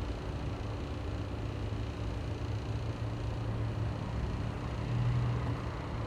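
Steady low rumble of street traffic going by, a little louder about five seconds in, over a continuous rushing background.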